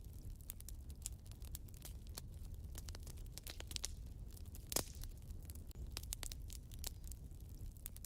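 Wood fire burning in a fireplace: a constant patter of small crackles and pops over a low steady rumble, with one louder pop a little past the middle.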